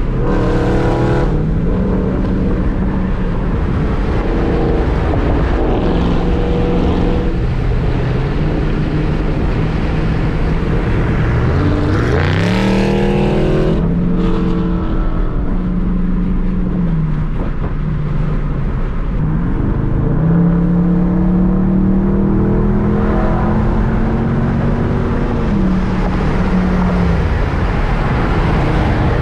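Dodge Hemi V8 heard from inside the cabin at highway speed, over steady road and wind noise. The engine note sweeps up hard about twelve seconds in and again around twenty seconds, holds, then drops back as the throttle comes off.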